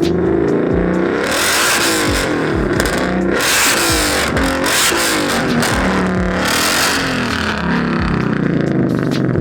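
Ford Mustang Shelby GT500's V8 being revved hard again and again, the revs climbing and dropping. Three loud, harsh noisy blasts come from the exhaust, at about a second in, near the middle and about two thirds through.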